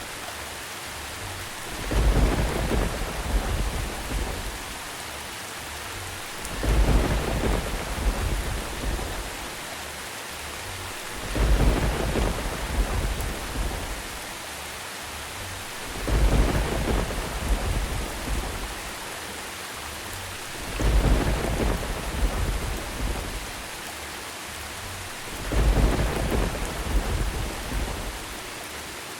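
Steady rain falling, with deep rolls of thunder that swell and fade six times at evenly spaced intervals of about five seconds.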